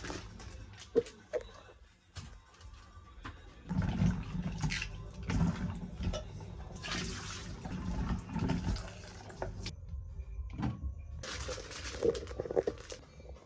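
Water running and splashing in uneven surges, loudest in the middle and again near the end.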